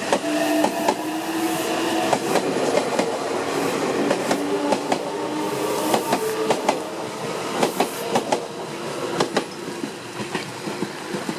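Meitetsu electric train moving through the station, its wheels clacking irregularly over rail joints and points. A steady motor whine is heard in the first few seconds, and the sound slowly fades toward the end.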